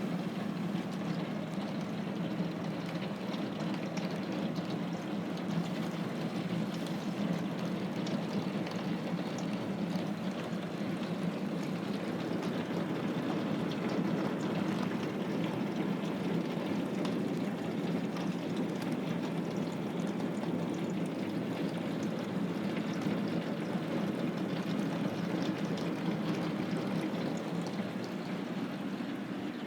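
Running water: a steady, even rushing with no breaks.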